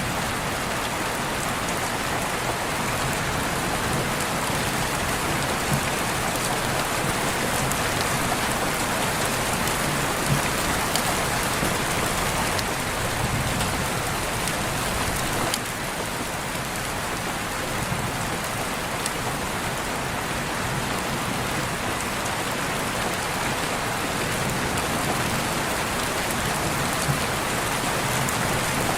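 Steady rain falling, a dense even hiss with faint individual drop ticks scattered through it.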